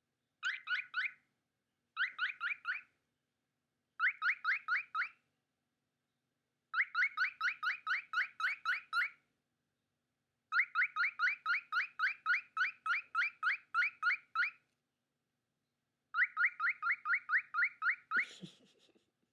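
Male cockatiel calling in bouts of rapid, evenly repeated short whistled chirps, about five or six notes a second, with short pauses between bouts.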